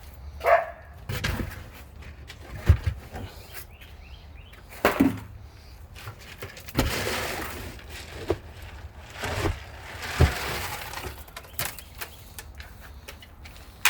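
Irregular rustling, crackling and knocking of animal feed being handled and put out for the animals, with several sharper knocks along the way.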